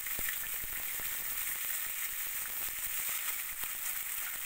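Spice pastes (onion, chilli, coriander and ginger) frying in hot mustard oil in a wok: a steady sizzling hiss with frequent small spattering crackles.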